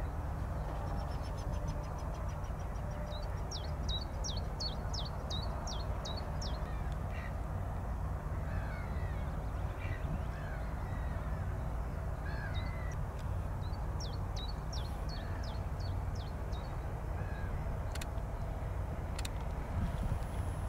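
Wild birds calling over a steady low rumble. A small bird gives two runs of quick, high, falling notes, about three a second, with fainter lower calls in between. Two sharp clicks come near the end.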